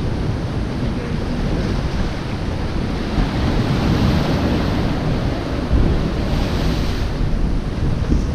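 Ocean surf washing against a rocky shore, with wind rumbling on the microphone; the wash swells a little about four seconds in and again near seven seconds.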